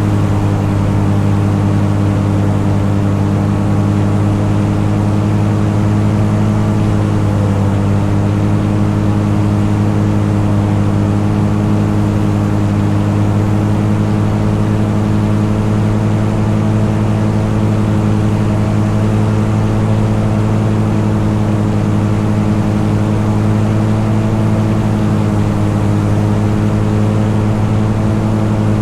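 Light aircraft's piston engine and propeller running steadily at cruise power, a constant drone. About seven seconds in, the pitch drops slightly.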